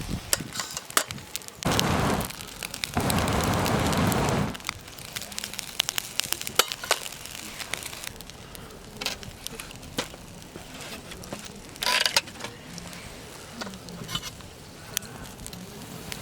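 Wood campfire crackling, with many sharp pops and snaps scattered irregularly. Two loud gusts of rushing air noise come about two and three seconds in, and there is a short hiss about twelve seconds in.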